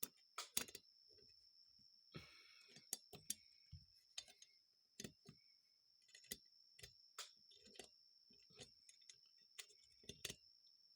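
Small metal carburetor parts clicking and tapping as they are handled and fitted together during reassembly: irregular light clicks, a few sharper ones near the start, over a faint steady high-pitched whine.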